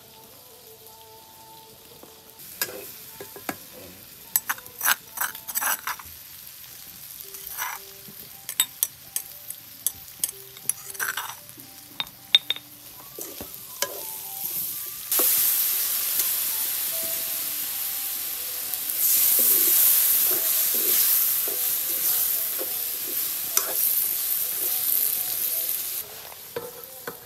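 A spoon clicks and taps several times against a plastic spice box and a steel wok as spices go in. From about halfway, chicken curry sizzles loudly and steadily in the wok while a ladle stirs it. The sizzle drops away near the end as the lid is put on the wok.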